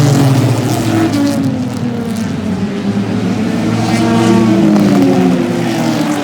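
Several race cars running laps on the oval, their engines droning at speed. The pitch falls over the first couple of seconds and rises again partway through as cars pass.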